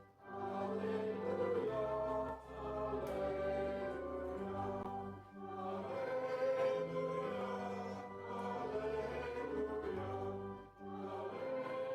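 A hymn sung by voices over an organ, whose steady held bass notes move in blocks under the singing. The music pauses briefly between phrases.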